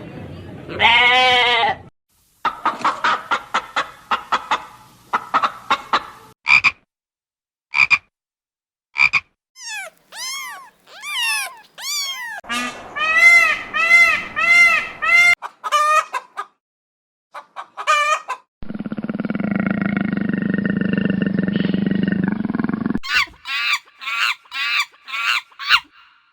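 A series of different animal calls, one after another with short silent gaps. They include rapid clicky croaks, short chirps, repeated arched calls of the kind chickens make, and a steady buzzing call about four seconds long.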